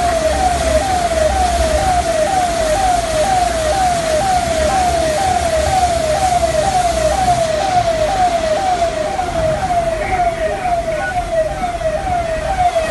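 Electronic siren wailing in a fast repeating pattern, each cycle a quick downward sweep, about two a second, over steady background noise.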